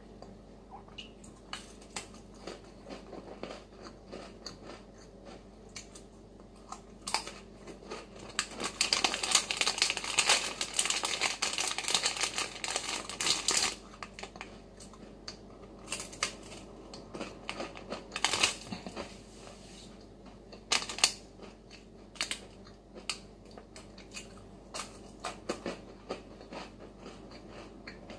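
Crisp crackers being bitten and chewed close to the microphone, with small crunching clicks throughout. A plastic snack wrapper is handled and crinkles loudly for several seconds around the middle, then again in a few short bursts.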